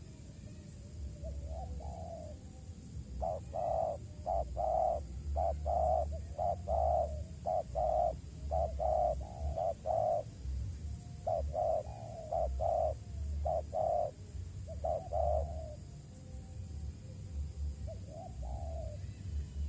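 Spotted dove (tekukur) cooing: a long run of short, low coos in quick phrases for about twelve seconds, with a few softer calls before and after. A low rumble runs underneath.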